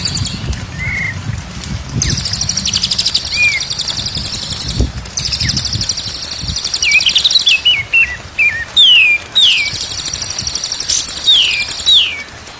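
White-rumped shama song: stretches of a rapid, high buzzy trill broken by short pauses, and in the second half a string of clear whistled notes, several of them sliding sharply down in pitch.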